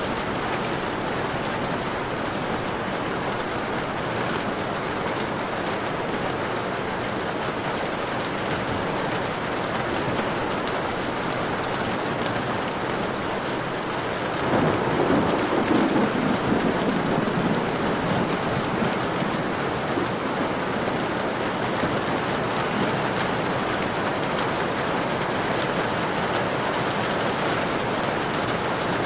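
Steady rain pattering on a window pane. About halfway through, a low roll of thunder rises over the rain and rumbles for a few seconds before fading back into it.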